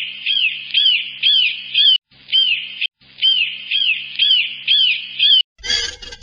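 Hawk calling over and over in short, high, arched cries, about two a second, with two brief breaks. Near the end a different, harsher sound with rapid pulses cuts in abruptly.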